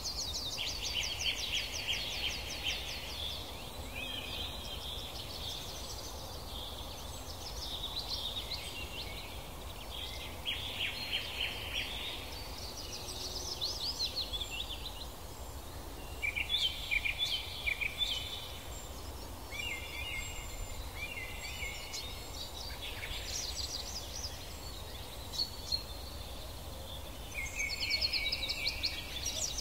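Songbirds singing, short trilled phrases following one another, over a steady low outdoor background noise.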